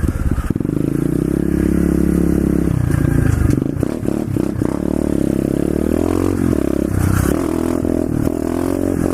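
Pit bike's small single-cylinder four-stroke engine running under way, its revs rising and falling in the second half. Clattering knocks from the bike come about four seconds in.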